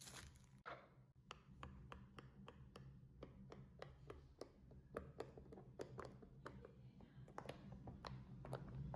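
Faint, irregular small clicks and taps, about two to three a second, from a fidget toy being handled, over a low steady hum.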